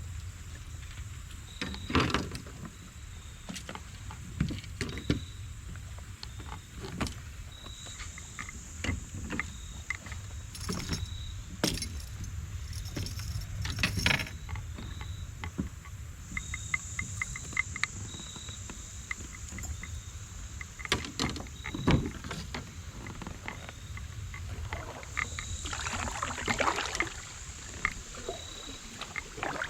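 Fishing from a kayak: scattered knocks and clicks of tackle and gear against the hull, with a short run of quick even ticks partway through, over a low steady rumble.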